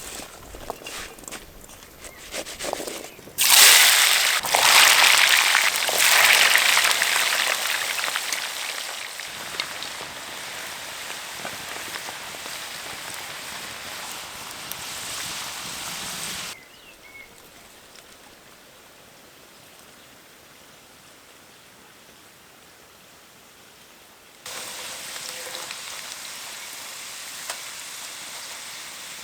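Food going into hot oil and frying: a sudden loud sizzle about three seconds in that slowly dies down. After a quieter stretch, a steadier sizzle comes back near the end.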